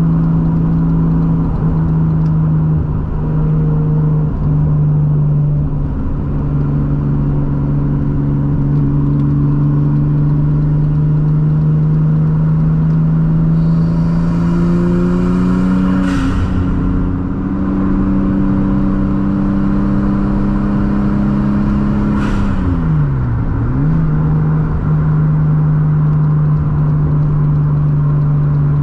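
Turbocharged RB25 straight-six engine running at highway cruising revs, heard from inside the cabin, its pitch climbing slowly. Twice, about halfway through and again some six seconds later, a short burst of noise comes as the revs change. After the second, the engine note drops sharply and comes straight back up.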